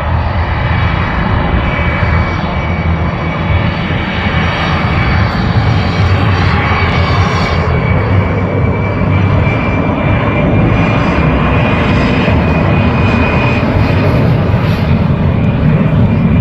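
Blue Angels F/A-18 Super Hornet jet noise, loud and steady, with a high whine running through it.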